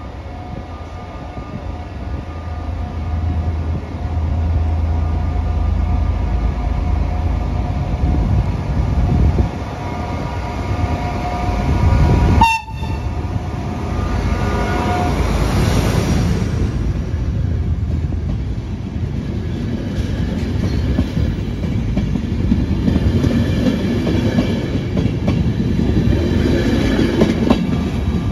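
Trenitalia D445 diesel-electric locomotive hauling an Intercity train, approaching and passing close by with a low engine rumble and its horn sounding. In the second half the coaches' wheels clack over the rail joints as the train rolls away.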